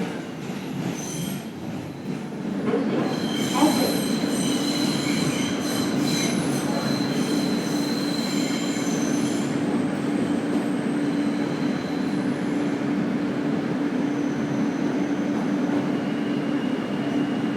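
Subway train running on the track: a steady rumble with a low hum. Shrill wheel squeal joins about three seconds in and dies away around ten seconds in.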